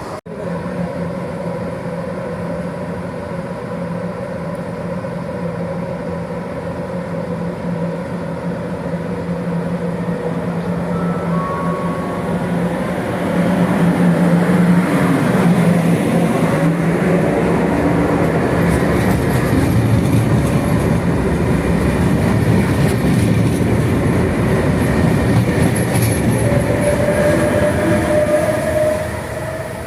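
Electric train running through the station. A steady motor hum grows louder from about halfway in, and a rising whine comes in near the end.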